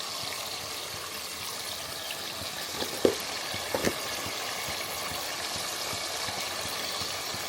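Koi fish and spice masala frying in a pan, a steady sizzle as curry powder goes in. A few light knocks come about three to four seconds in.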